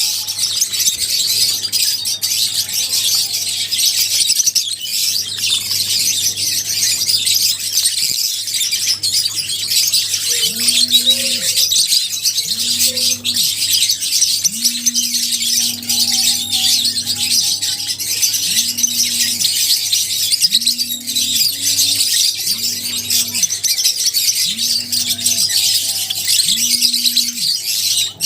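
Many lovebirds chirping at once in a dense, continuous high-pitched chatter.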